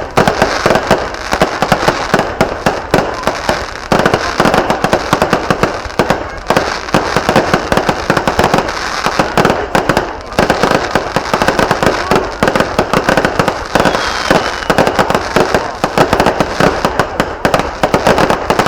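A dense, rapid barrage of fireworks bangs and crackles, going on without a break except for brief lulls every few seconds.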